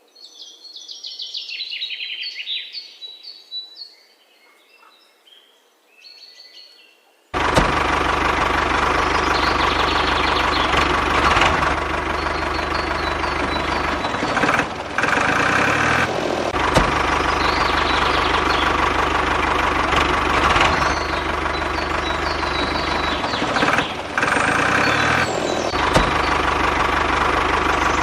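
Birds chirp for several seconds. Then engine noise, as of a tractor, starts suddenly about seven seconds in and runs steadily, with two brief dips, while the birds go on faintly over it.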